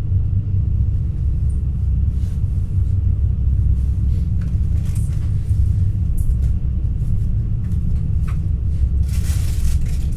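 Interior rumble of an NS Intercity New Generation (Alstom Coradia Stream) electric train in motion: a steady, loud low rumble from running gear and track, with a short hiss near the end.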